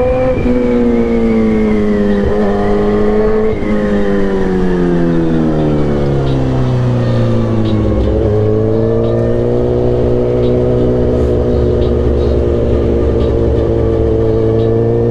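Sportbike engine heard from on board while riding, its revs falling steadily as the bike slows, with two brief breaks in the note about two and three and a half seconds in. From about eight seconds in it holds a steady low note.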